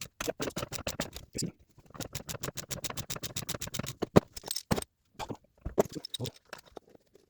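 Ratchet wrench clicking in quick, even runs, with a few sharper metal knocks from tool work on the supercharger.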